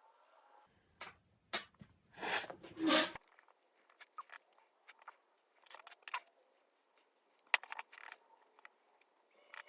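Scattered light clicks and taps of small hand work at a bench, with two short rasping strokes about two to three seconds in.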